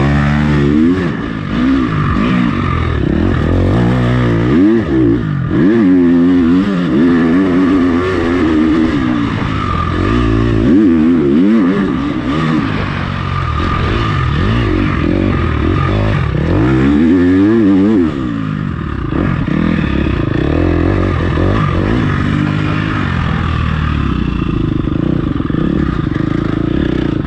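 Motocross bike engine revving hard and easing off again and again as it is ridden round the track, its pitch repeatedly climbing and dropping.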